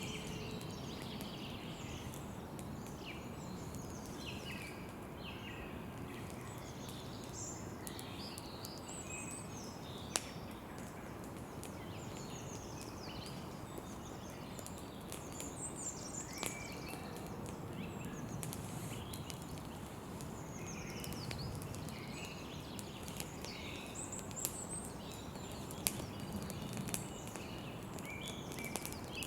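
Campfire crackling with a few sharp pops, over a low steady rush, while several birds chirp and trill throughout.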